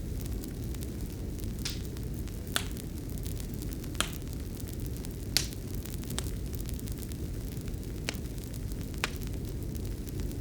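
Wood fire crackling in a fireplace: sharp, irregular pops, about seven over ten seconds, over a steady low rumble.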